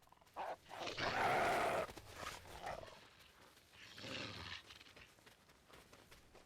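Large wild animals calling: a loud, rough call lasting nearly a second about a second in, and a weaker one about four seconds in.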